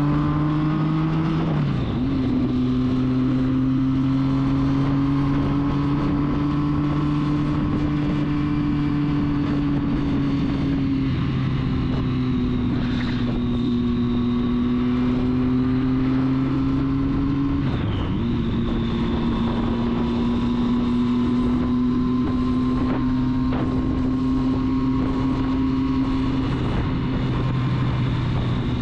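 Triumph Street Triple's inline three-cylinder engine running steadily under way, its pitch dropping suddenly about one and a half, eleven and eighteen seconds in as the rider changes up a gear, over wind noise on the microphone.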